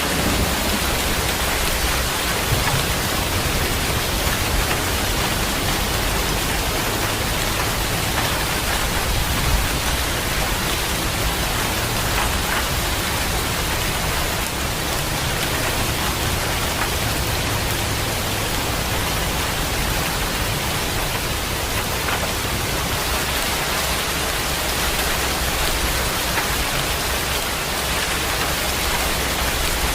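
Steady rain, an even hiss of falling water with no distinct drops or breaks.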